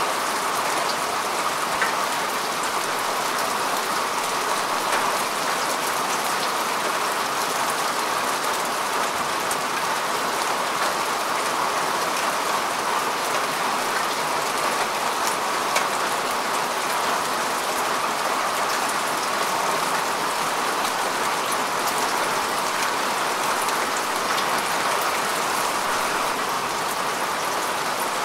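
Steady rain falling on grass and earth, a dense even patter with occasional single drops ticking more sharply.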